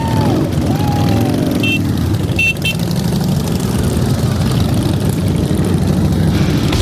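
Many motorcycle engines running together in a dense, steady rumble, with a couple of revs rising and falling in the first second.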